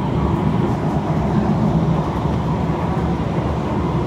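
Interior running noise of a Kawasaki C151 MRT train in motion: a steady low rumble of wheels on rail, with a faint steady tone above it.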